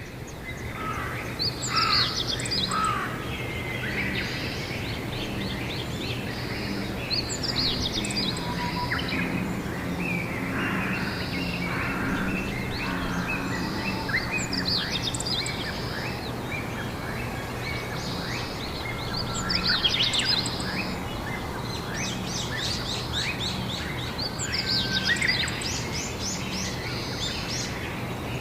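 Several songbirds chirping and singing in spring, with quick repeated trills coming and going throughout, over a steady low hum.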